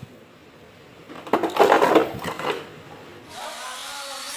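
Plastic toy excavator being handled: a burst of rattling clicks about a second in, then a steady whirring hiss starting about three seconds in.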